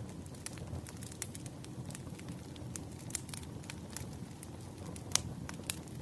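Wood fire crackling: a steady low rumble of burning logs with irregular sharp pops and snaps, one louder pop about five seconds in.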